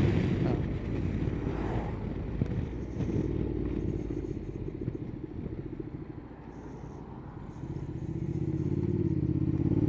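Honda NC750X's parallel-twin engine with road and wind noise as the motorcycle slows, fading to a low, quiet run about six to seven seconds in. It then picks up revs again as the bike pulls away near the end.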